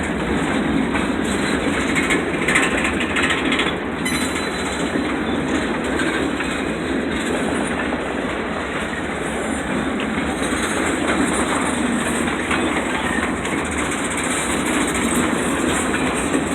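Freight train cars rolling past close by: a steady rumble and rattle of wheels on the rails.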